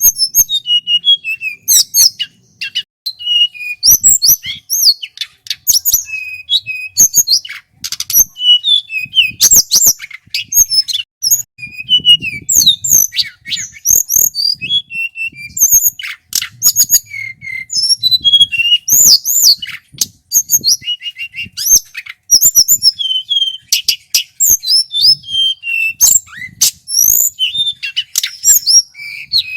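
Male tledekan gunung, a Javanese hill flycatcher, singing a long, loud, fast and varied song. It runs without a break, mixing clear whistles, quick rising and falling glides and rapid rattling note strings.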